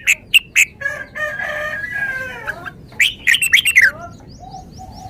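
Red-whiskered bulbul singing short, sharp whistled notes, with a second burst about three seconds in that ends in a falling slur. Between the two bursts a rooster crows once, a call of nearly two seconds that falls at its end.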